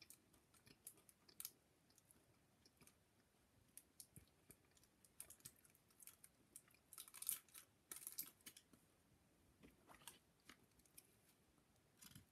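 Faint chewing of a piece of chocolate: soft mouth clicks and crackles, with a few louder ones a little past the middle.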